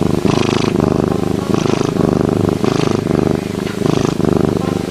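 An animal's low, rough, pulsing growl, with a breathy rasp coming every second or so.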